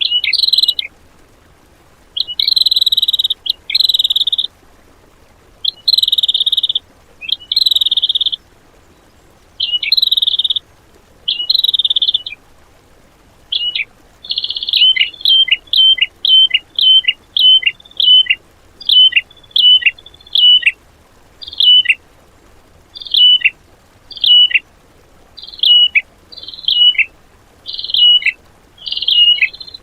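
Songbird singing 'tembakan' filler song: buzzy trilled phrases of about half a second with short gaps, then from about halfway a string of sharp downward-slurred whistled notes, about two a second, coming faster near the end.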